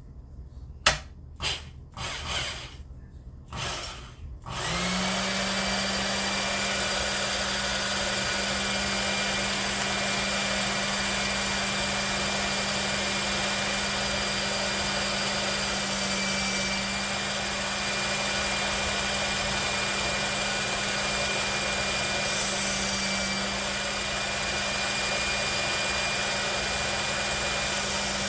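Small belt grinder used for knife sharpening, with its pulley on the medium speed setting: a few knocks, then the motor is switched on about four and a half seconds in, spins up quickly and runs steadily with a constant hum and belt hiss. The hiss grows briefly twice, around the middle and again later.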